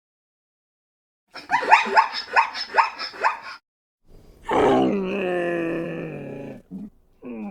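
Animal calls: a quick run of short yelping calls, about four a second, then a long groaning call that falls slightly in pitch, and another falling call starting near the end.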